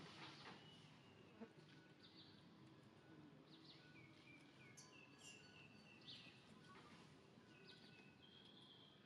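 Near silence: quiet outdoor ambience with faint, scattered high bird chirps, a short run of them in the middle, and one soft tap about one and a half seconds in.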